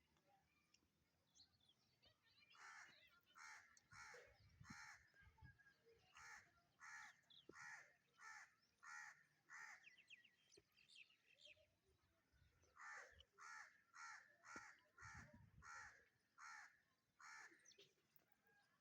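A bird giving faint, harsh, caw-like calls in two runs of evenly repeated calls, about one and a half a second, with a pause of a few seconds between the runs.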